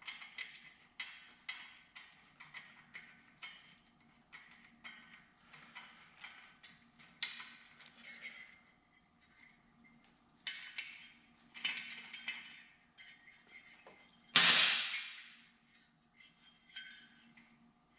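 Socket ratchet clicking in short runs, about two strokes a second, as the 17 mm cylinder-head nuts of a 125cc two-stroke motorcycle engine are backed off. A single loud metallic clank about two-thirds of the way in is the loudest sound.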